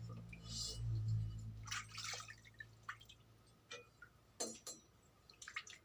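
A low motor hum fades out over the first two seconds, then comes a scatter of light metal clicks and knocks as honing tools and the cylinder block are handled.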